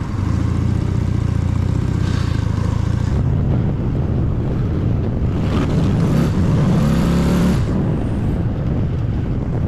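A motorcycle engine runs steadily while riding in traffic, under road and wind noise. From about five and a half to seven and a half seconds in, louder engine tones rise and fall as a vehicle comes close.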